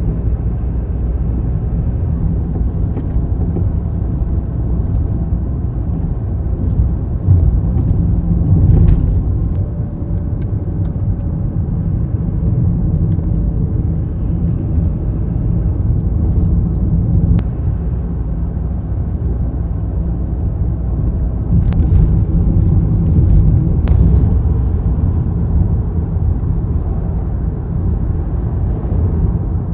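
Steady low rumble of a car on the move, swelling slightly twice, with a few faint clicks.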